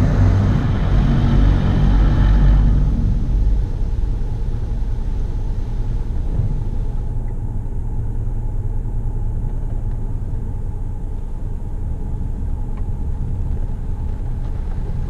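High-pressure water jets of a Mark VII ChoiceWash XT touch-free car wash spraying the car, heard from inside the cabin as a loud hiss. The spray stops about three seconds in, leaving a steady low rumble.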